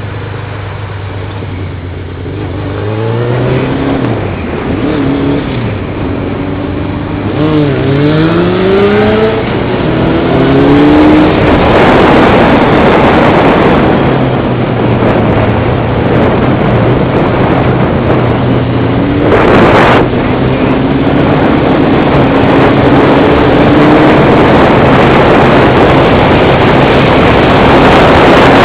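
Motorcycle engine running steadily at low revs, then revving up and dropping back several times as it pulls away and shifts up through the gears. From about ten seconds in, loud wind rush on the microphone covers most of it at speed, with the engine holding a steady note underneath.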